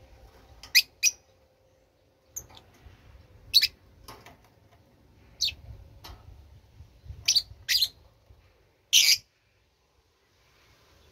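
A bird chirping: about eight short, high-pitched chirps spaced irregularly, sometimes in pairs. The loudest and longest comes near the end.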